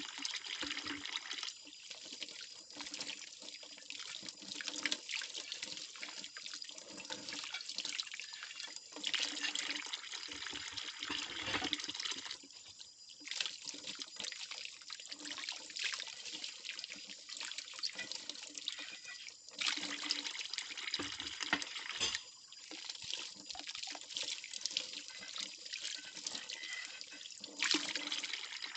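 Plates being washed by hand in a kitchen sink: water splashing and trickling, which swells and fades, with frequent light knocks and clinks of the ceramic.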